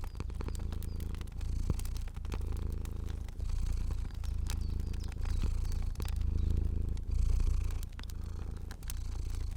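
Cat purring in a steady low rumble that swells and eases with each breath, about once a second, with scattered crackles of a wood fire over it.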